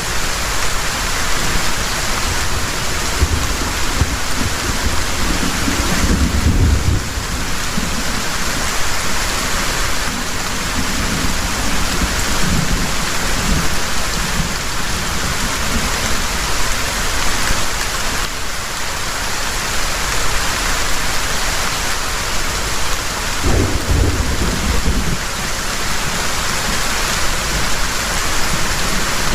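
Heavy rain pouring steadily, with low rumbles of thunder swelling twice, about six seconds in and again about twenty-four seconds in.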